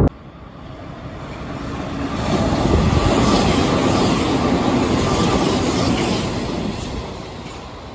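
Hanshin 8000 series electric train running along the platform and away. The train noise builds over about three seconds, holds, then fades near the end as it recedes.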